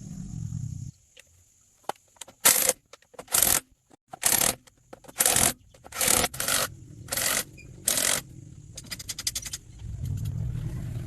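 A series of about eight short scraping strokes a little under a second apart, followed by a quick run of fine clicks. A low hum is heard at the start and again near the end.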